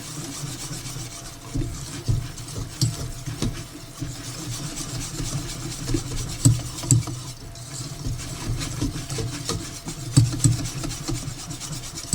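A spoon stirring thick chocolate frosting, scraping steadily, with a few sharper knocks.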